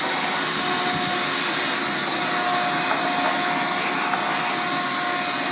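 Vacuum cleaner running steadily, its motor giving a constant whine over the rush of air, as it sucks built-up lint out of a commercial dryer.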